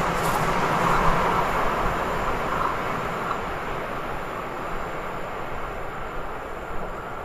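Rolling noise of a train that has just passed, a steady rush of wheels on rail that fades away as it moves off down the line.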